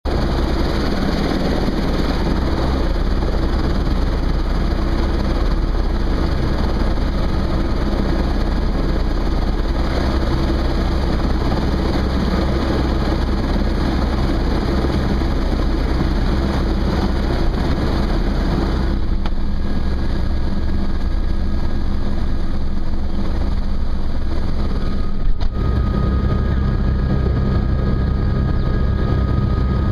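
Helicopter engine and rotor running steadily, heard from on board as a dense, loud drone with a strong low rumble. The tone shifts about two-thirds through, and near the end there is a brief knock followed by a faint steady whine.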